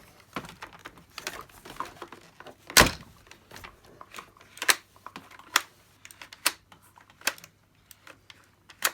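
Plastic parts of a Dyson DC50 vacuum cleaner being handled and fitted back: a run of light clicks and knocks, with one louder knock about three seconds in.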